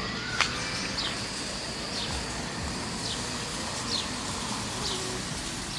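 Outdoor street ambience with a bird giving short, downward-sliding chirps about once a second over a steady high-pitched tone and a low background rumble; one sharp click about half a second in.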